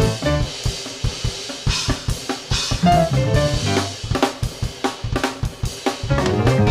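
Drum kit played fast and densely: rapid snare and bass drum hits with rimshots and cymbals, over a backing track with pitched notes.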